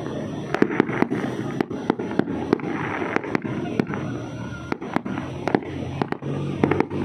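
Fireworks going off: many sharp bangs and pops at an irregular pace, several a second, over continuous crackling.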